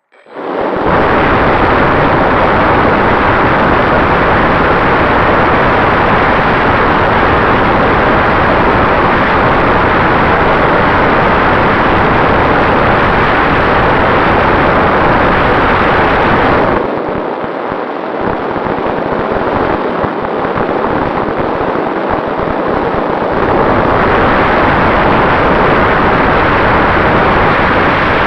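Loud, steady rushing noise of an FPV drone in flight, its onboard microphone filled with wind and propeller noise. It drops somewhat lower for several seconds about two-thirds of the way through, then comes back.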